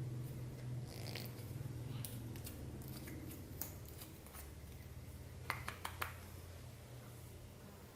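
Clear slime with plastic beads being squished and worked by hand, giving scattered sharp clicks and crackles, with a quick run of about four clicks about five and a half seconds in, over a low steady hum.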